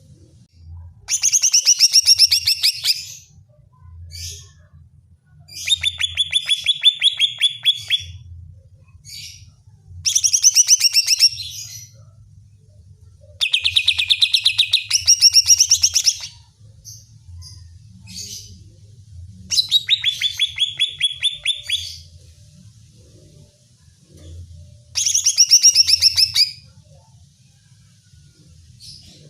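Cucak ijo (green leafbird) singing in six loud, fast-trilled phrases of about two seconds each, separated by short pauses with a few single chirps. This is a heated, persistent song used as a lure to provoke rival cucak ijo.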